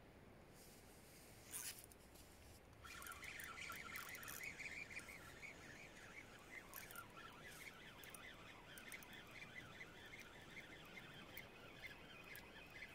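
A faint, dense chorus of rapid high chirping calls from small animals, starting suddenly about three seconds in, after a single short click.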